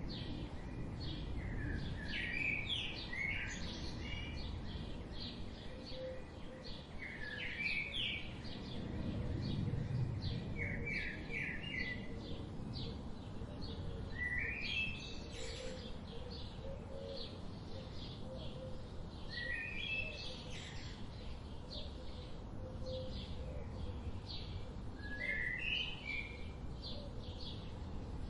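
Wild birds singing: one bird repeats short, quick song phrases every few seconds over a background of many faint high chirps, with a steady low rumble of outdoor ambience underneath.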